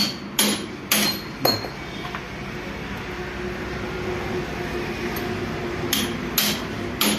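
Hammer blows on metal, about two a second, some with a short ringing note. After a pause of a few seconds, three more blows come near the end.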